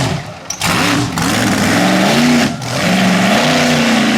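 Mega truck engine revving hard in surges, its pitch climbing and falling. The throttle lifts briefly about two and a half seconds in, then the engine pulls again.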